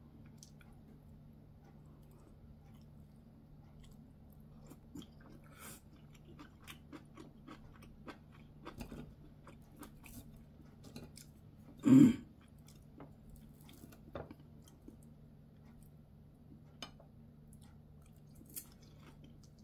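A person chewing food close to the microphone, with small wet clicks and smacks of the mouth scattered through. One louder short knock or smack comes about twelve seconds in, over a faint steady low hum.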